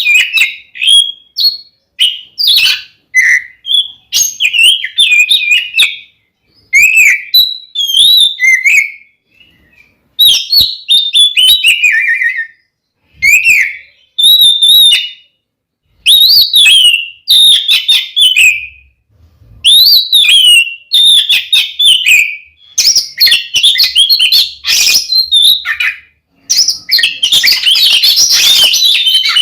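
Oriental magpie-robin (kacer) singing loudly in fighting mode: short, varied whistled phrases with swoops and quick trills, broken by brief pauses. Near the end the notes run together into a dense, harsher burst.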